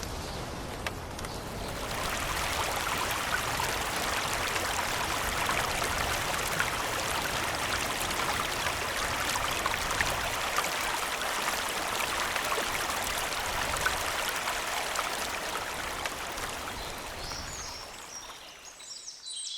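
Steady rush of running water, swelling about two seconds in and fading out near the end.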